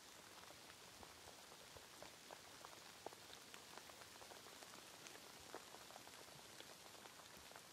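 Faint, steady rain: an even hiss with many scattered ticks of single drops landing.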